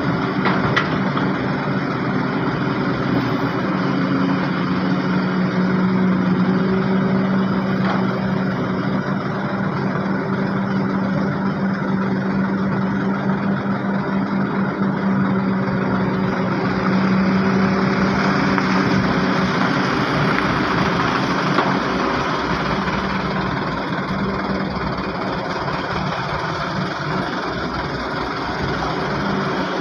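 Heavy diesel engines running steadily, with a low droning hum that fades about two-thirds of the way through. Around the middle, a louder rush of engine noise swells and dies back.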